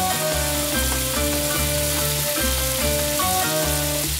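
Whole onions sizzling in hot oil in a stainless steel pot, stirred with a wooden spatula, with background music: a melody stepping from note to note over a bass line.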